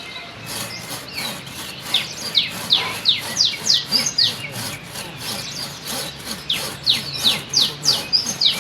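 A bird calling a long run of short falling notes, about three a second, over a faint scraping, rubbing noise.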